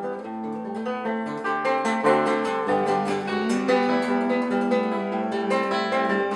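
Acoustic guitar playing an instrumental passage between sung verses, a quick, even run of plucked and strummed notes.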